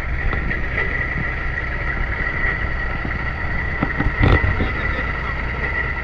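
Truck engine running steadily with a low rumble and a constant high whine; a single knock sounds about four seconds in.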